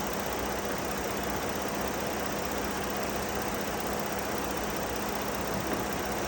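2008 Ford Edge's 3.5-litre V6 idling steadily with a constant hum, the engine kept running so the newly replaced AC compressor can draw in a refrigerant recharge.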